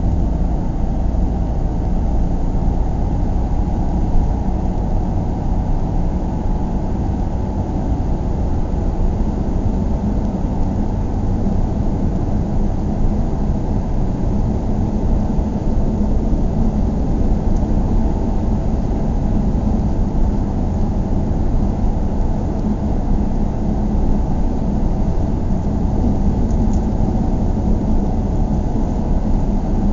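Steady low rumble of a car ride: road and engine noise heard from inside the car, even and unbroken, with a faint low hum coming up about ten seconds in.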